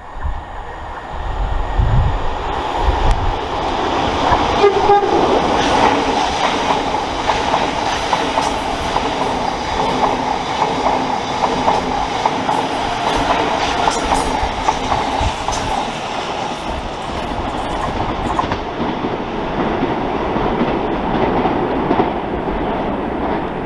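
Train running through the station on the rails, a steady rumble with wheels clacking over rail joints, and a short horn note about five seconds in.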